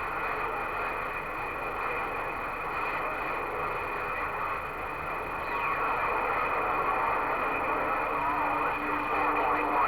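CB radio receiver hissing with band static between transmissions, a steady hiss with a faint steady whistle over it and faint sliding whistles about halfway through. A low steady tone comes in about eight seconds in.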